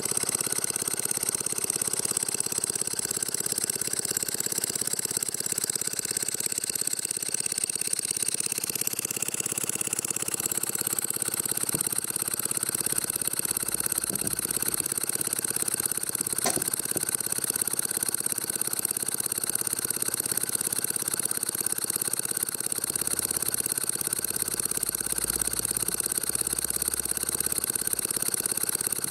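H.E. Boucher twin-cylinder marine steam engine model running steadily on compressed air, its exhaust hissing with a steady mechanical beat. A single short click sounds about sixteen seconds in.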